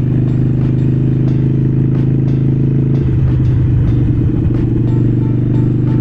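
Harley-Davidson Iron 883's air-cooled V-twin engine running steadily under way. Its even drone breaks up for about a second and a half in the middle, then settles again.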